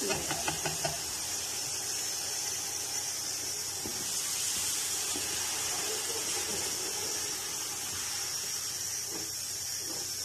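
Tomato purée sizzling and frying in hot oil with onions and spices as it is stirred: a steady hiss.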